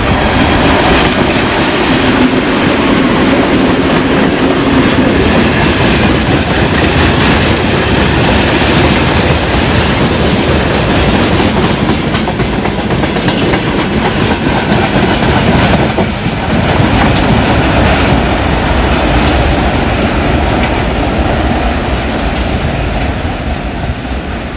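2TE25KM diesel freight locomotive passing close by with its engine running, strongest in the first few seconds, followed by a long string of boxcars rolling past, their wheels running over the rails.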